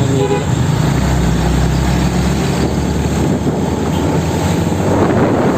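Heavy truck's diesel engine running with a deep drone, strongest in the first half and then easing, over steady road and tyre noise.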